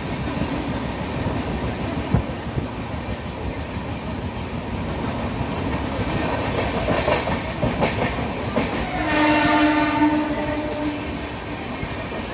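Passenger express train running on the rails, with a steady rumble and irregular clatter from the wheels. About nine seconds in, a train horn sounds once and is held for about two seconds.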